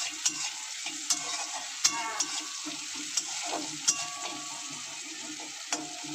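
Sliced carrots sizzling in hot ghee in a metal karahi, with a steady hiss. A spatula scrapes and taps against the pan several times as they are stirred.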